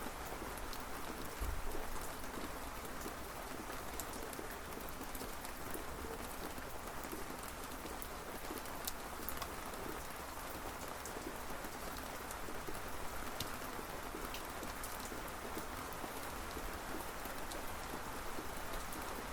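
Steady rain falling, with single drops ticking sharply on a surface throughout. There is a brief low rumble about a second and a half in.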